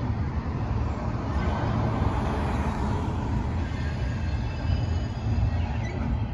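Double-stacked container cars of a Union Pacific intermodal freight train rolling across a railway overpass: a steady low rumble of wheels on rails.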